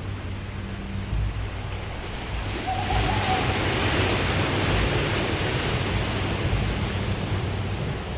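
Waterfall rushing steadily with a deep rumble, and a swell of brighter hiss that comes in about three seconds in and eases off near the end.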